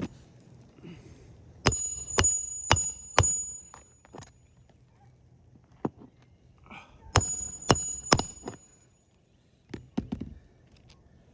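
Hammer driving roofing nails through asphalt shingles: four quick blows, then three more about four seconds later, each with a short metallic ring.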